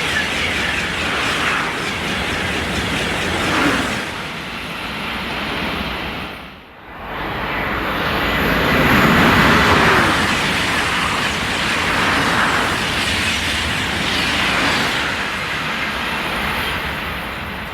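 High-speed train passing through at speed: a loud, continuous rushing of wheels on rail and air. The sound drops out abruptly for a moment about seven seconds in, then the rush returns and fades slightly toward the end.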